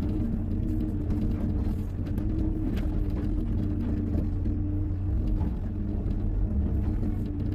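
Hyundai 140 wheeled excavator's diesel engine running steadily under work, with a few faint clicks and knocks.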